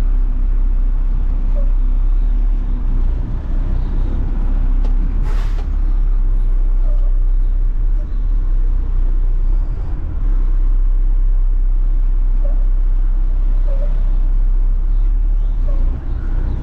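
Front-load garbage truck's diesel engine running with a steady low rumble, with a short hiss of air from the air brakes about five seconds in.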